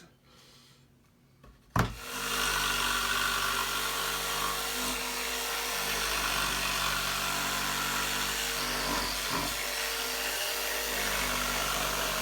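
Electric jigsaw switched on with a click about two seconds in, then running steadily as its blade saws relief cuts into a pallet board, with a brief dip partway through.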